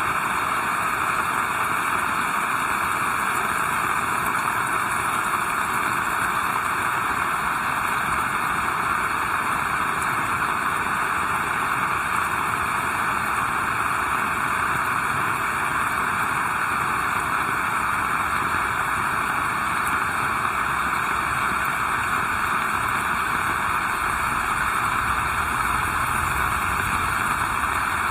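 Heavy rain falling as a steady, even hiss, with a faint low rumble coming up near the end.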